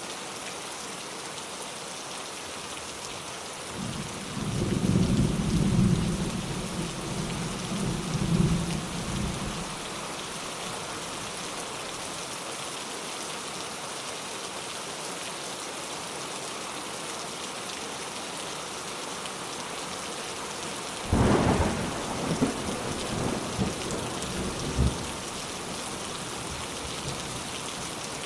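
Steady rain with two bouts of thunder: a low rolling rumble builds about four seconds in and dies away by about ten seconds, then a sharper thunderclap cracks about 21 seconds in and rumbles on for a few seconds.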